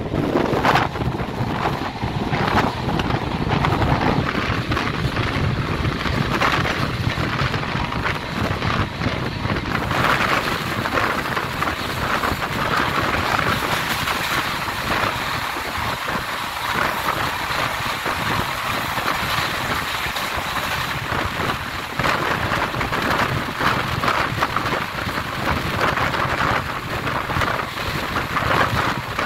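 Express train running at speed, heard from on board: a steady rush of wheels on the rails and wind noise, turning hissier about ten seconds in.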